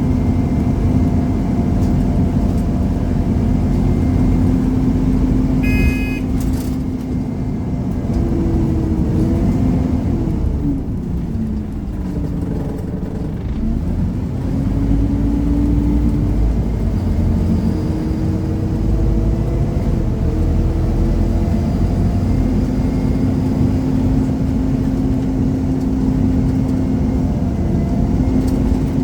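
Scania Omnicity single-deck bus under way, heard from inside: the engine runs steadily, its note falls from about 9 s to 13 s and then climbs back and holds steady. A short beep sounds about 6 seconds in.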